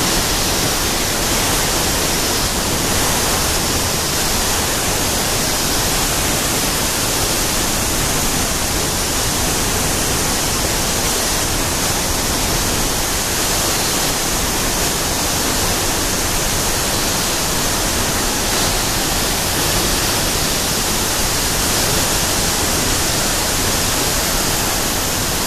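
La Fortuna waterfall pounding into its plunge pool: a loud, steady rush of falling water, with cicadas buzzing in the background.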